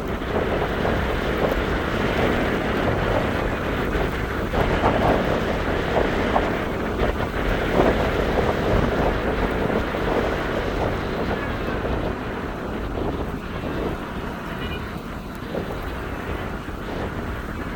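Gusty wind buffeting the microphone, a loud, uneven rushing noise that swells and eases.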